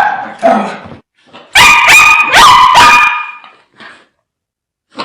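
Fierce dog barking: one bark at the start, then a quick run of four sharp barks about a second and a half in, fading out before a gap near the end.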